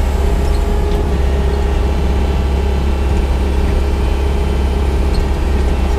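Yanmar crawler excavator's diesel engine running steadily under work, a continuous low rumble with a steady hum above it.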